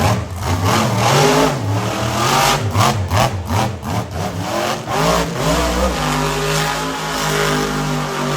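Monster truck engine revving up and down in quick repeated bursts, then holding a steady, even note for the last couple of seconds.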